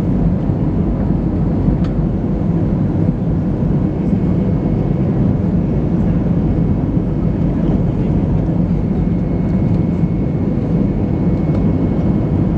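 Steady cabin noise inside an Airbus A320-214 in flight: a dense low rumble from its CFM56 engines and the airflow, with a faint steady hum on top.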